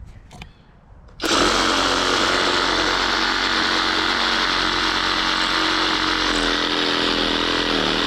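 Skil cordless reciprocating saw (SawZall) starting about a second in and cutting into tree wood, running steadily; its pitch dips and wavers a few times near the end.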